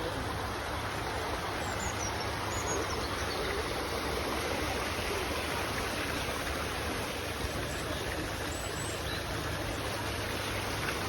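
Steady rush of splashing water from an outdoor fountain, an even hiss with no break.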